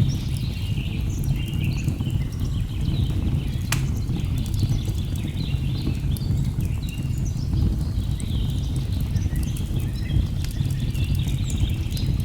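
Steady low rush of a waterfall with birds chirping and calling throughout, over the scattered snapping of a crackling log fire; one sharper snap comes a little under four seconds in.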